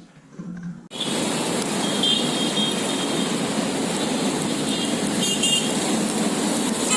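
Steady rushing outdoor background noise that cuts in abruptly about a second in, with a few short, high bird chirps over it, twice.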